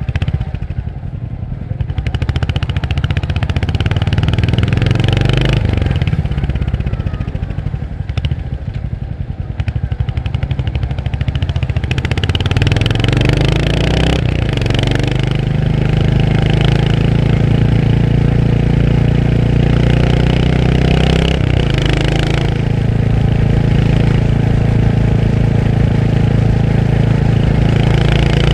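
Royal Enfield Hunter 350's single-cylinder engine running under way. It picks up revs about halfway in, with brief breaks in the note a few times, like gear changes, then runs at a steady, higher pitch.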